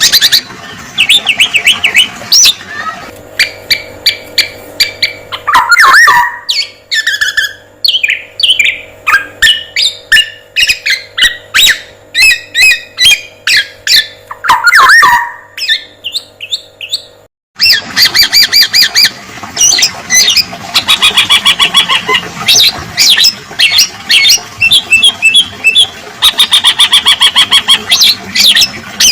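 Male black-naped oriole (kepodang emas) calling and singing loudly in rapid runs of sharp chirps, mixed with harsh sliding squawks. The recording cuts off abruptly about 17 seconds in, and the calling resumes a moment later.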